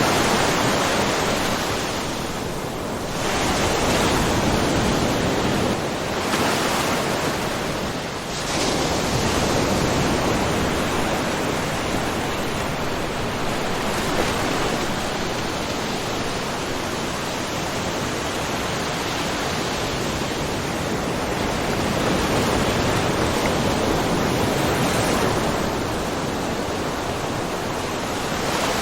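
Small ocean waves washing and splashing against a rocky, mussel-covered shore, a steady rushing wash that swells and eases every few seconds.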